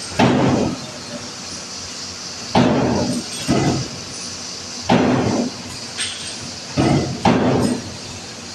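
Heavy hammer blows on steel: about six sharp strikes at uneven spacing, a second or two apart, each ringing briefly.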